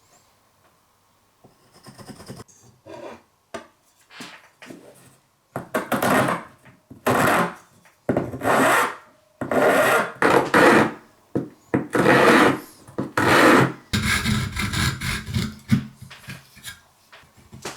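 Wooden chisel handle being shaped by hand with a rasp in long scraping strokes, about one a second, after a few faint short strokes at first. Near the end the strokes turn into quicker, almost continuous scraping.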